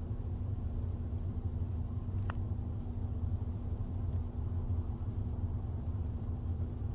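Outdoor ambience: a steady low rumble with faint, short high-pitched chirps every second or so, and one brief rising chirp about two seconds in.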